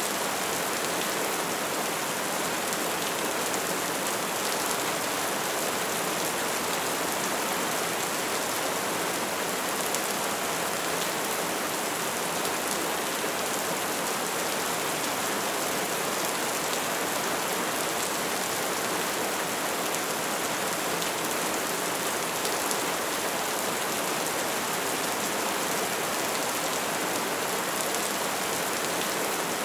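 Steady soft rain falling, a dense even patter of many small drops on surfaces, with no pauses or swells.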